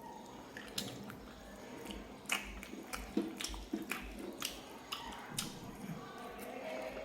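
A person chewing food close up, with irregular wet mouth clicks and smacks.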